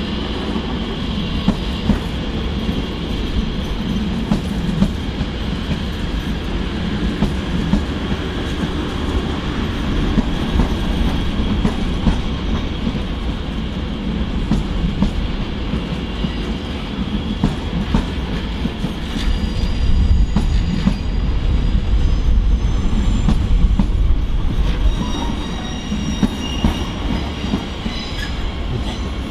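Electric train running past on the track, steady rumble with wheels clicking over rail joints. It is loudest about two-thirds of the way in, and faint high wheel squeal comes in during the last third.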